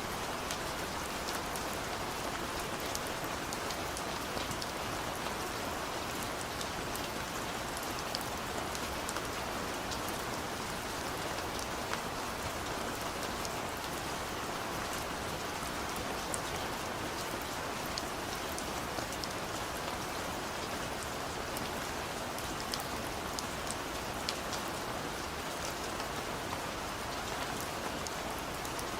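Heavy rain falling steadily in a forest, a dense even hiss with countless small drop ticks and no thunder.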